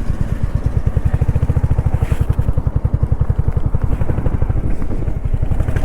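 Royal Enfield Hunter 350's single-cylinder engine running on the move, a steady, rapid low pulse, with a brief hiss about two seconds in.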